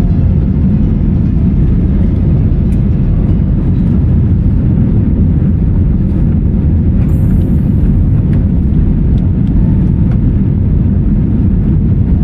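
Steady low rumble of jet airliner cabin noise.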